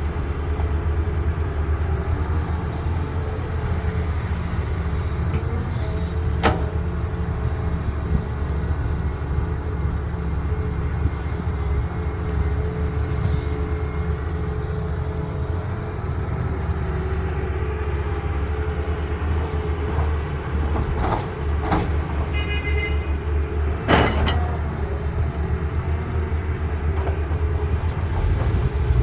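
Heavy diesel construction machinery running steadily with a deep rumble, with several sharp knocks and clanks. A brief high beep or toot comes about three-quarters of the way through.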